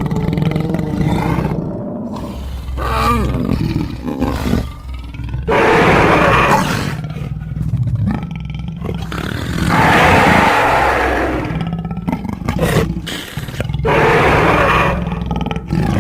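Designed giant-cat creature vocals layered from big-cat and monster recordings: three loud roars, one about six seconds in, one near ten seconds and a longer one near the end, with lower growls and a deep rumble between them.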